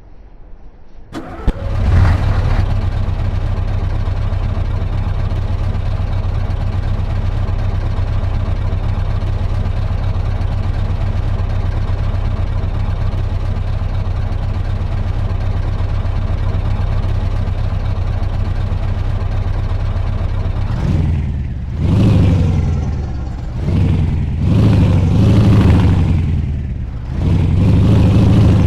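Scania V8 diesel truck engine starting: a click, then it catches about two seconds in and idles steadily. Near the end it is revved four times, each rev rising and falling back.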